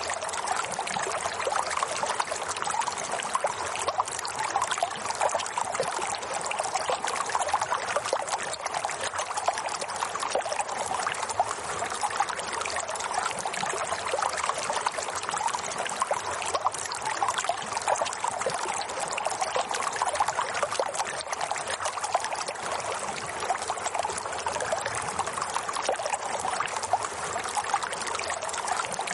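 Water flowing and trickling steadily, like a small babbling stream, without a break.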